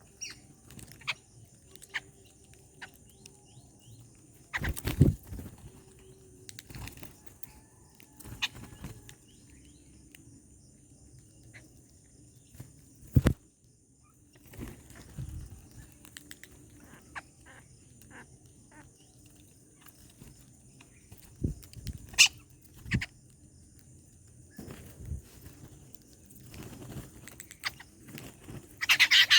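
Birds at a feeding spot: scattered wing flaps, taps and knocks as they land, hop and peck at food, with a few faint chirps. The loudest knocks come about 5, 13 and 22 seconds in.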